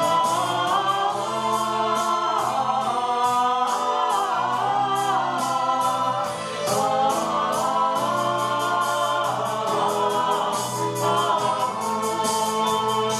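A small vocal group singing a song in several voices, with accompaniment that keeps a steady beat.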